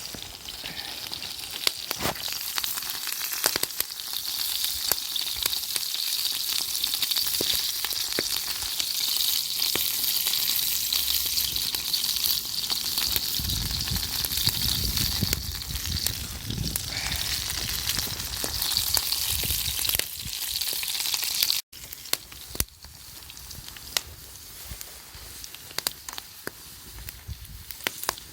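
Food frying in a pan over a campfire, with a steady loud sizzle and scattered crackles. About three quarters of the way through it cuts off sharply and resumes as a quieter sizzle.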